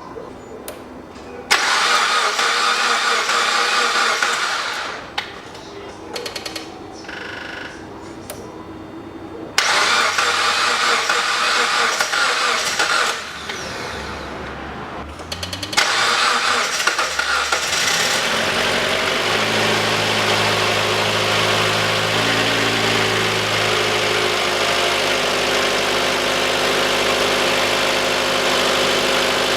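Mitsubishi ASX's rebuilt 1.8-litre 4B10 four-cylinder engine being cranked by the starter in three tries. It catches on the third and settles into steady idling. This is its first start after a full overhaul.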